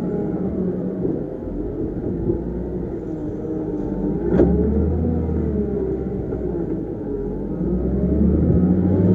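Heavy construction machine's diesel engine running and revving, its pitch rising and falling, with a sharp knock about halfway through.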